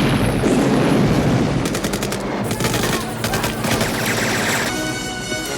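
Rapid, sustained machine-gun fire from an action film's soundtrack, with a film score coming in near the end.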